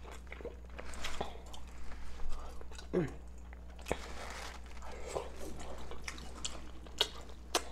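Close-up chewing of rotisserie chicken dipped in cheese sauce: wet mouth smacks and clicks at irregular intervals.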